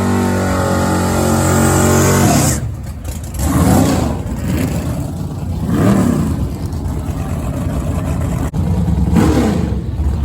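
Drag-racing car engine at high revs, held steady and then cutting off sharply about two and a half seconds in, followed by several shorter revs rising and falling.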